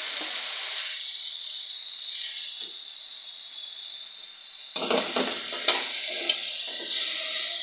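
Chopped onion and tomato paste sizzling in hot oil in a frying pan, a steady frying hiss. From about five seconds in, a metal spatula scrapes and stirs through the mixture in several strokes.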